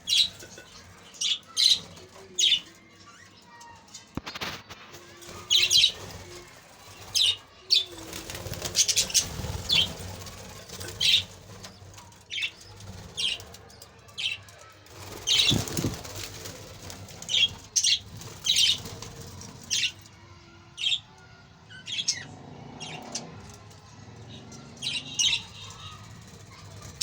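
A flock of budgerigars chirping in short, scattered calls, with wings flapping.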